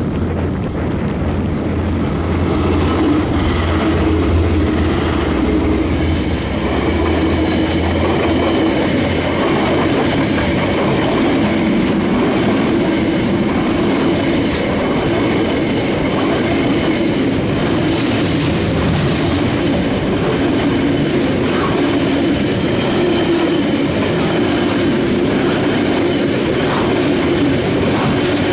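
KiwiRail DL-class diesel-electric locomotive passing close by with a low engine drone for the first several seconds. A long freight train's wagons follow, rolling steadily past with wheel-on-rail rumble, a scattering of clicks over the rail joints, and a faint high wheel squeal.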